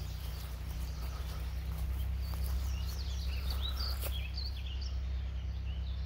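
Small birds chirping, short high calls coming thick from about two seconds in to five seconds in, over a steady low rumble.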